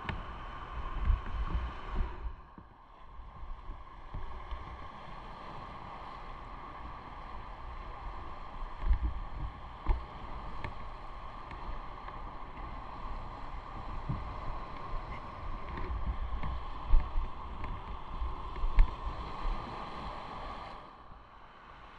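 Motorcycle riding on the road: a steady engine and road hum with irregular low gusts of wind buffeting the microphone, briefly quieter about two seconds in and again near the end.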